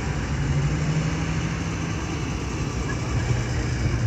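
Tractor engines running in a steady low drone, the engine note dropping a little about halfway through.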